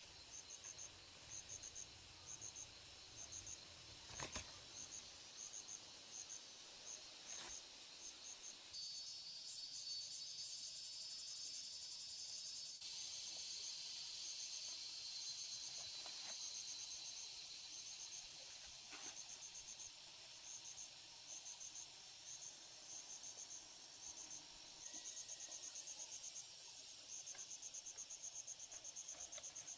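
Insects chirping in quick repeated pulses over a steady high-pitched buzz, with a few faint clicks.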